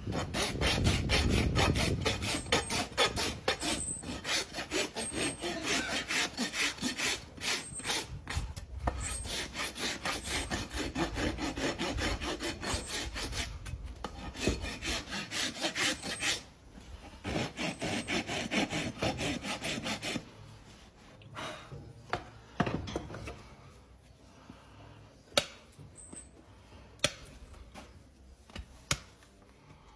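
Farrier's rasp filing a horse's hoof: repeated scraping strokes for about twenty seconds, then the rasping stops and a few sharp clicks follow.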